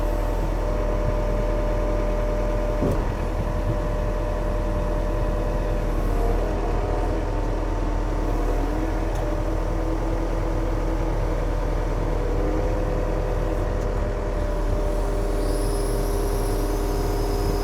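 Yanmar diesel engine running steadily, its pitch shifting a few times.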